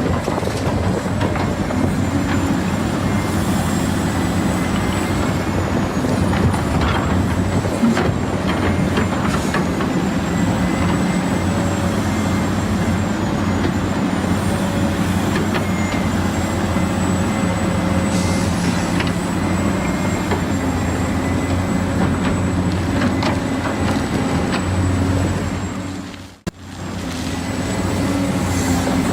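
Small electric motors and plastic gearboxes of a remote-controlled toy excavator whirring steadily, with a thin high whine and scattered plastic clicks. The sound cuts out briefly near the end, then resumes.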